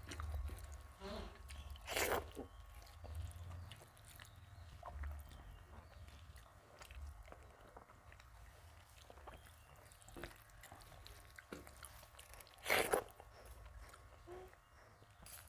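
Close-up eating sounds of a person eating rice, dal and fish by hand: quiet chewing and mouth noises with fingers mixing food on a metal plate, over a low steady hum. Two louder short bursts stand out, one about two seconds in and one late on, the second the loudest.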